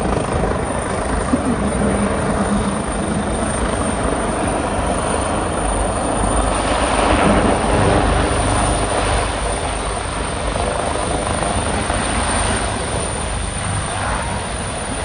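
Helicopter flying past: a steady rotor and engine noise with a heavy low rumble, swelling a little about halfway through.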